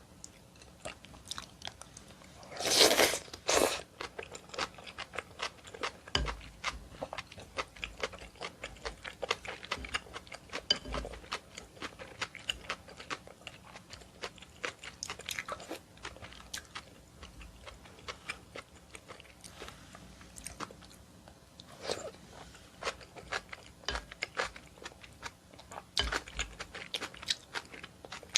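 Close-miked mouth sounds of a person eating seaweed and oyster soup: steady chewing with many small wet clicks, and one louder noise lasting about a second near the start.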